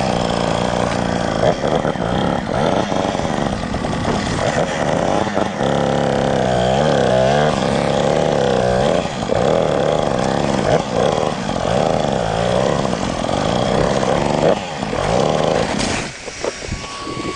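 Dirt bike engine revving hard in repeated rising and falling bursts, as on a difficult trail section. The engine note drops away near the end.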